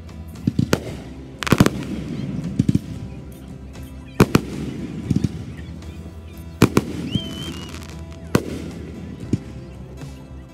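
Aerial fireworks shells bursting overhead: a series of sharp booms, some in quick clusters, each trailing off in a low echoing rumble.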